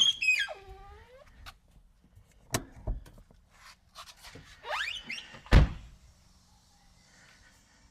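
Rubber mallet knocking on a rusted rear brake rotor and hub while the rotor is turned: a couple of quick knocks about two and a half seconds in and a heavier one later. Between them come high squeaks that glide down, and later up, in pitch.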